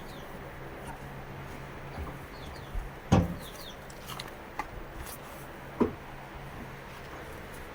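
Two loud sharp knocks, about three and six seconds in, over a steady low hum, with a few short bird chirps.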